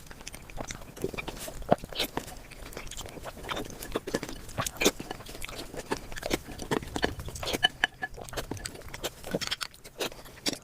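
A person eating big mouthfuls of spicy curry and rice, with loud, irregular chewing and smacking close to the microphone.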